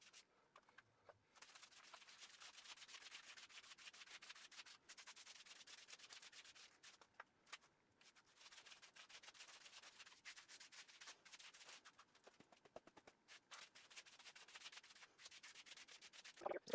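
Faint, quick rasping strokes of a large bristle paint brush working primer into a rough masonry wall, with a few short pauses.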